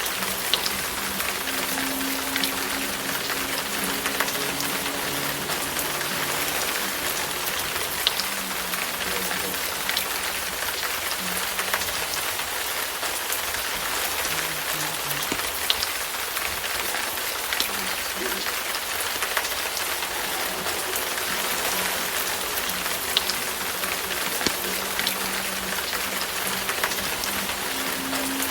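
Wood fire in a fireplace crackling steadily, with sharp pops every second or so.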